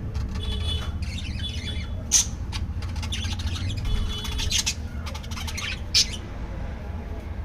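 Budgerigars squawking and chattering, with two sharp, loud squawks about two seconds in and again about six seconds in, over a steady low hum.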